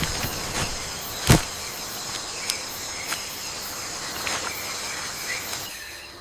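Forest ambience: a steady chorus of insects shrilling in several high tones, with one sharp click a little over a second in and a few fainter clicks after.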